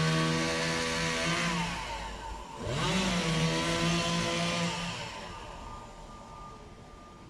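Chainsaw running at high revs, dropping off the throttle about two seconds in, then revving straight back up, holding, and fading away over the last couple of seconds.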